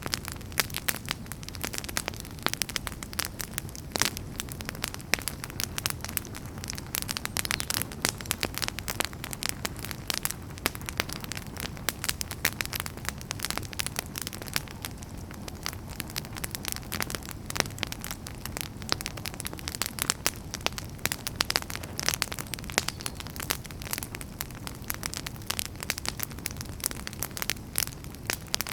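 Wood fire burning in a fireplace, with dense, irregular crackles and pops over a steady low rush of flame.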